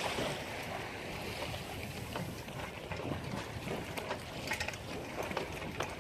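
Water sloshing and splashing against a boat's hull on the open ocean, with scattered small splashes and wind noise on the microphone.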